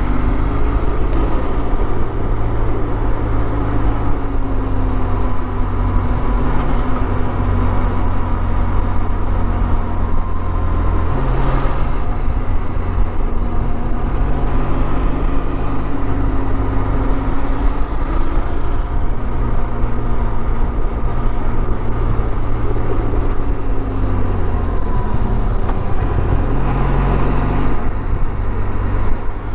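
Benelli TRK 502's parallel-twin engine running steadily under way on the road. Its low drone shifts to a new pitch about eleven seconds in and again near the end.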